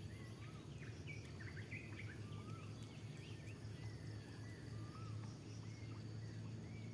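Birds calling with short chirps that rise and fall, scattered throughout, over a steady high insect drone and a low hum.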